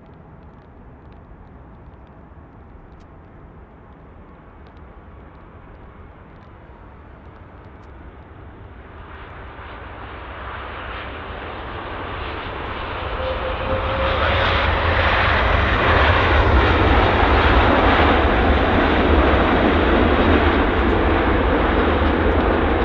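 Airliner on landing approach flying past close by: its engine noise starts faint, grows steadily from about eight seconds in, and stays loud through the second half.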